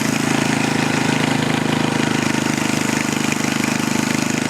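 Snowblower engine running steadily at an even speed.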